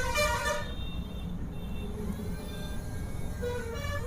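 Vehicle horns sounding in passing street traffic, one held toot at the start and shorter ones near the end, over a steady low hum of traffic noise.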